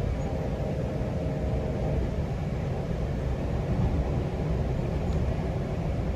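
GO Transit commuter train running at speed, a steady low rumble of wheels on the track, with a faint whine over the first two seconds.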